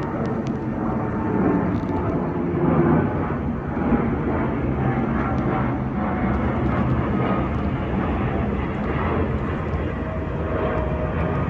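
Twin-engine jet airliner's engines, a loud steady roar with faint steady tones running through it.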